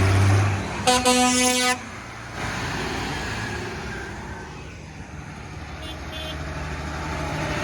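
A vehicle horn toots once, a single steady note lasting under a second, over passing tractor engines. The engine noise is loudest at the start and settles to a lower running rumble after the horn.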